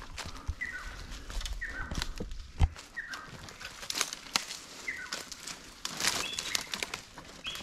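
A forest bird calling repeatedly in short notes that slide downward, about one every second or so. Under it, footsteps crunch on dry leaves and loose stones, with one sharp thump a little over two seconds in.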